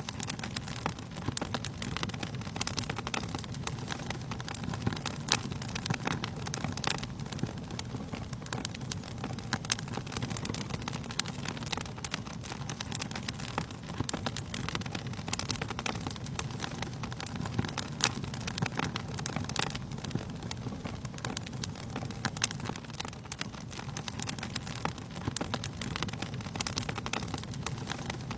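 Campfire burning: wood crackling with many quick, irregular snaps over a steady low rumble of the flames.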